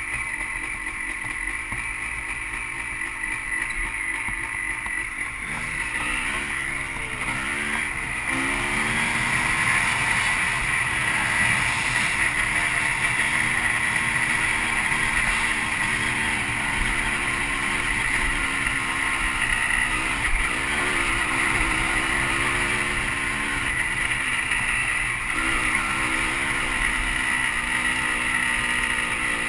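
Dirt bike engine running under way, its pitch rising and falling as the throttle is opened and closed, louder from about eight seconds in.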